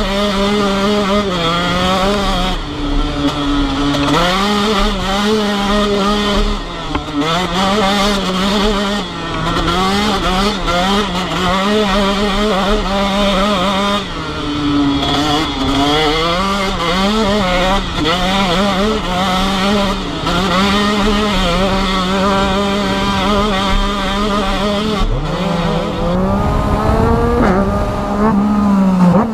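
Motorcycle engine heard from the rider's seat, held at steady revs with repeated brief drops as the throttle closes or gears change, then revving up near the end.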